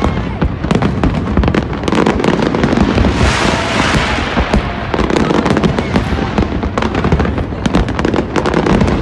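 Fireworks display going off: a dense run of rapid bangs and crackles, with a hissing, crackling burst about three seconds in.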